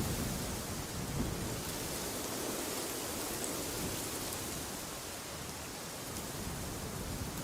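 Steady wind noise with a low, rumbling, gusty undertone.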